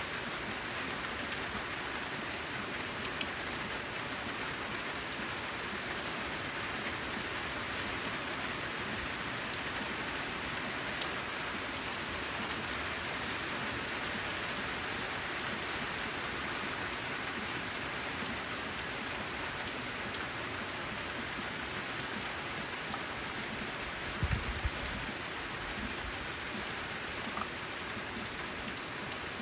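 Steady rainfall with scattered individual drops ticking. There is one brief low thump about four-fifths of the way through.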